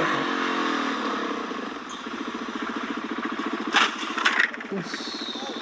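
Motorcycle engine running, its pitch dropping about half a second in and then holding steady, with two sharp loud noises near four seconds in.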